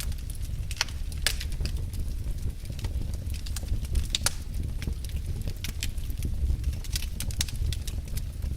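Wood fire burning in a fireplace: a low steady rumble of the flames with irregular crackles and sharp pops of burning logs.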